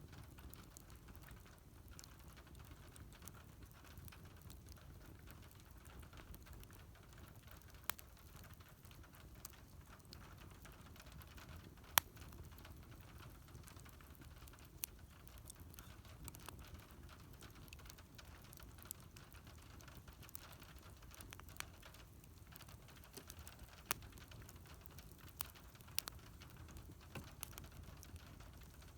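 Wood fire burning with faint, steady crackling and scattered sharp pops, about a dozen over the stretch, the loudest about twelve seconds in.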